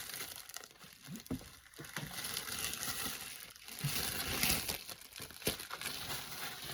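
Plastic packaging crinkling and rustling as it is handled and unwrapped, with many small crackles and clicks, loudest in the middle stretch.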